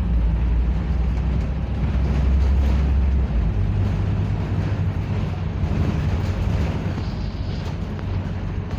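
Scania double-decker bus's diesel engine running, heard on board. About three seconds in, its deep note steps up in pitch and then holds steady.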